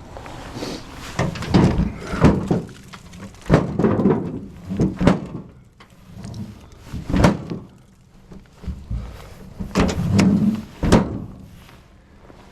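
Split firewood pieces being tossed and dropped onto a load, landing as a dozen or so irregular hollow thunks and knocks.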